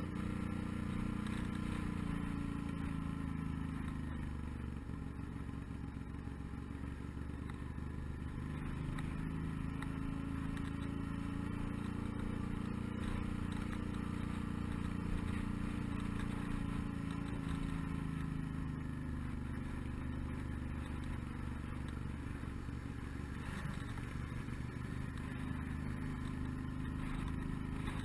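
Suzuki V-Strom 650's V-twin engine running at road speed, with a low rumble beneath it. Its pitch eases down over the first several seconds, climbs again in the middle and settles lower toward the end as the road speed changes.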